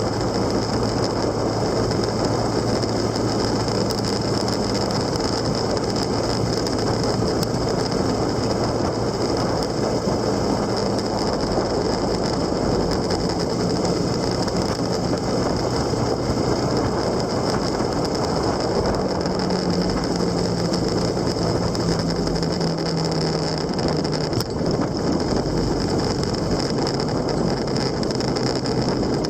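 Motorcycle engine running while riding, with steady wind and road noise; the engine's pitch steps up and down a few times as the revs change.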